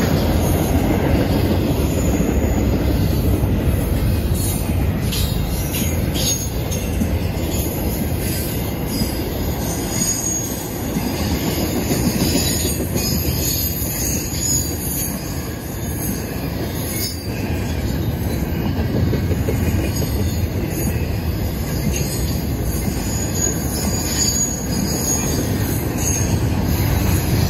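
Double-stack intermodal freight train's well cars rolling steadily past close by, a continuous wheel-and-rail rumble with occasional knocks over the track joints and intermittent high-pitched wheel squeal.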